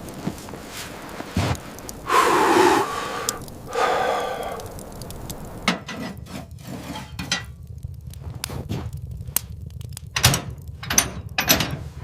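Two longer rasping sounds, then from about halfway on a run of irregular sharp wooden knocks and thuds, like timber being handled or struck.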